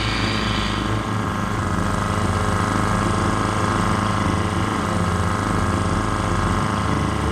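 Boat engine on a dugout canoe running steadily at trolling speed.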